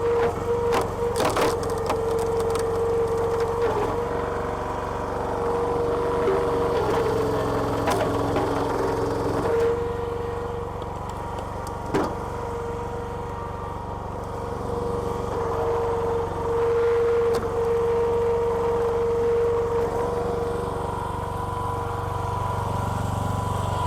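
Petrol engine running steadily to drive a homemade hydraulic log splitter, with a steady whine over the engine, and wood cracking and splintering as a log splits, a few sharp cracks near the start and one about halfway.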